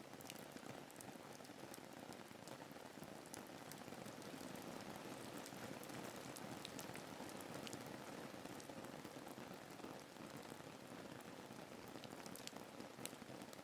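Soft, steady rain ambience: an even hiss of falling rain with many scattered, individual drop ticks.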